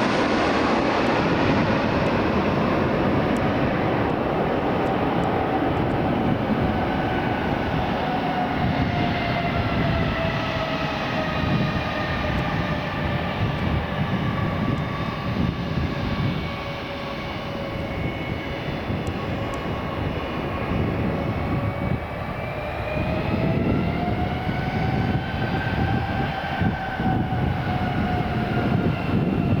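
Airliner engines running: a low rumble under a whine whose pitch sinks slowly, then climbs again about three-quarters of the way through.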